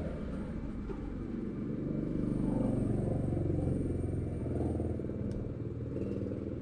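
A motor vehicle's engine running close by: a low hum that grows louder about two seconds in, then eases off.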